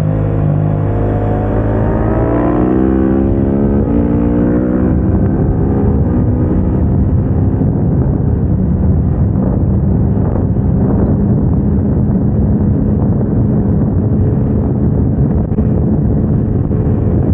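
KTM 690 SMC-R's single-cylinder engine accelerating under load on track: the pitch climbs over the first few seconds, drops with an upshift about four seconds in, then holds high revs.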